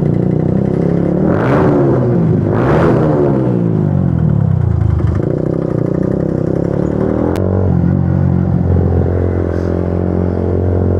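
Motorcycle engine running at highway speed, its steady harmonic drone shifting in pitch. About one and a half and three seconds in, other engines rush past with rising and falling notes. From about halfway on, it settles into a steady lower note.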